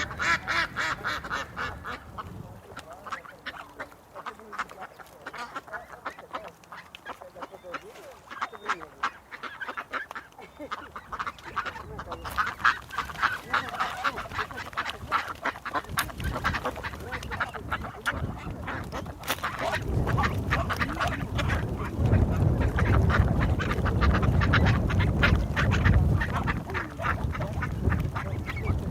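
A flock of ducks quacking, many rapid overlapping quacks. About two-thirds of the way in a loud low rumble joins them.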